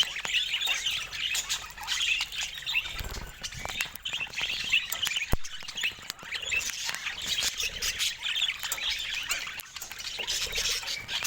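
Budgerigars chattering, many short overlapping chirps and squawks at once.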